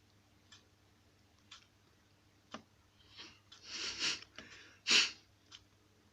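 A clock ticking steadily about once a second, with a person's breathy sniffs and breaths a few seconds in, the loudest a sharp sniff near the end.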